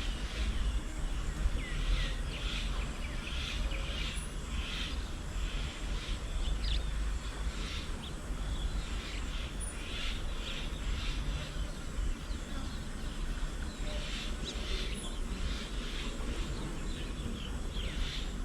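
Several birds chirping and calling in short notes, over a steady low rumble.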